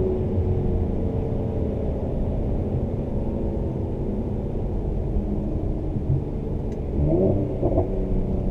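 Cabin sound of a 2017 Mercedes-AMG C43's twin-turbo V6 and performance exhaust. The engine note fades as the throttle closes at the start, leaving a steady low rumble while the car rolls on. Near the end the revs rise and fall twice in quick succession.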